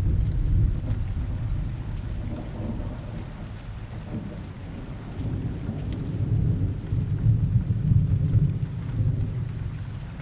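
Rain ambience: steady rain hiss with low rolling thunder that swells near the start and again later on.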